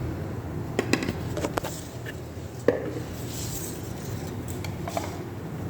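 Kitchen utensils clinking and knocking, a spoon against bowls and spice containers while spices are mixed into chicken: a few light knocks about a second in, a sharper one near three seconds, more near the end, over a steady low hum.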